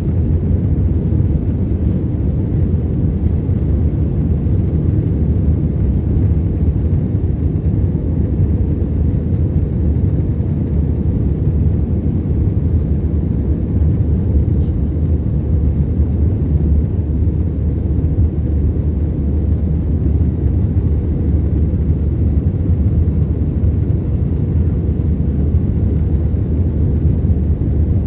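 Cabin noise inside an Airbus A321-211 in flight: the steady low roar of its two CFM56 turbofan engines and the airflow past the fuselage, with no change through the stretch.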